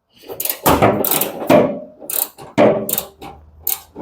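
Screws being undone from the metal panels of a Whirlpool tumble dryer: a run of irregular clicks, ratchet-like ticking and scrapes of metal.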